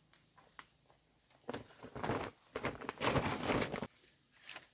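Insects chirring steadily in the background, with about two seconds of scuffing and rustling noises starting about one and a half seconds in.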